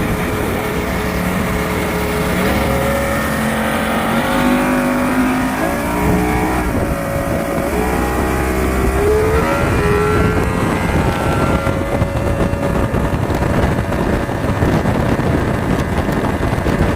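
Tornado power boat's engine running under way, its pitch rising and falling several times over the first ten seconds as the throttle changes, then giving way to a steady rushing noise of wind and water.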